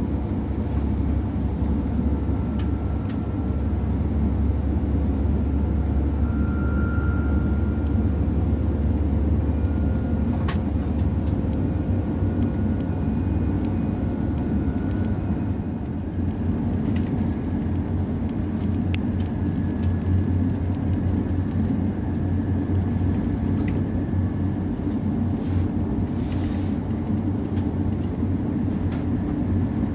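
Interior running noise of an ICE 3 high-speed electric train in motion: a steady low rumble of wheels on rail with a faint steady whine above it. A few sharp clicks and a brief hiss near the end.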